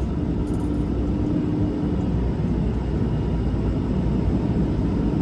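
Semi truck's diesel engine running at low speed, heard from inside the cab: a steady low rumble with a hum over it.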